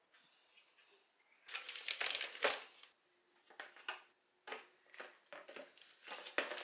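Packaging crinkling and rustling as it is handled, in irregular bursts: the loudest burst comes about two seconds in, and shorter ones follow.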